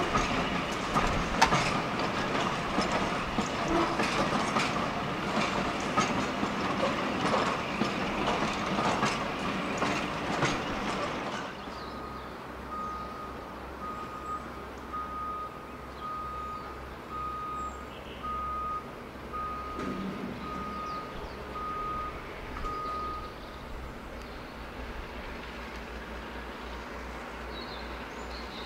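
A train passing, its wheels clicking over the rail joints, dies away about eleven seconds in. A low steady hum follows, with a short high beep repeating about once a second for some ten seconds.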